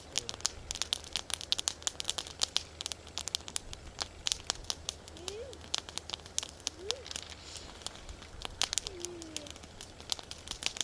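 Wood bonfire crackling: a dense, irregular run of sharp pops and snaps.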